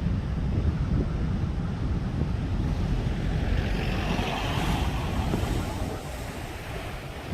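Sea waves breaking and washing up a beach, with wind buffeting the microphone. A wave's hiss swells about four seconds in, and the sound eases off near the end.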